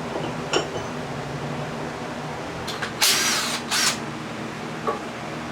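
A handheld power tool, such as an impact gun or ratchet, run in two short bursts a little after the middle, with sharp metal clicks before and after.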